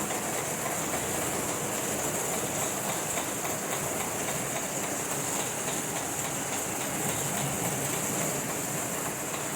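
Steady rain falling: a constant hiss with faint scattered ticks of drops.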